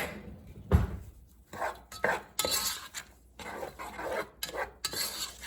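A utensil stirring and scraping against a pot of onion, jalapeño and garlic sautéing in olive oil, in irregular strokes, with one dull knock about a second in.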